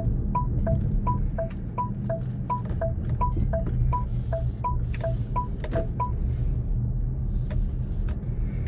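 A car's turn-signal indicator ticking in an even two-note tick-tock, about three ticks a second, and stopping about six seconds in. Beneath it is a steady low rumble of engine and road noise.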